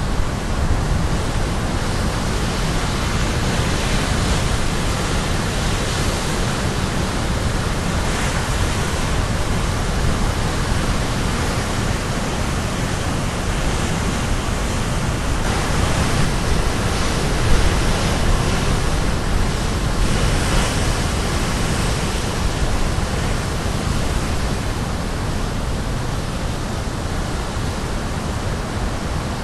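Caribbean Sea waves breaking on the shore in a steady, dense rush of surf, swelling a little as bigger waves come in, heavy in the low end, as if with wind on the microphone.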